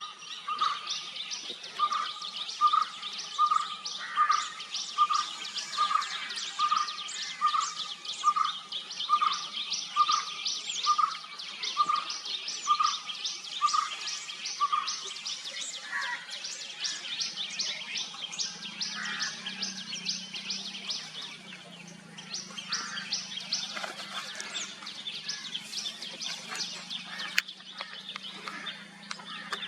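White-cheeked barbet calling: a low, even note repeated about one and a half times a second, stopping about halfway through. Behind it runs a steady background of fast, high chirping.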